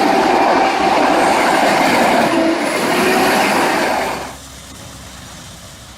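Industrial wood grinder running under load: loud, dense grinding noise with a steady hum through it. About four seconds in it drops abruptly to a quieter, steady machine noise.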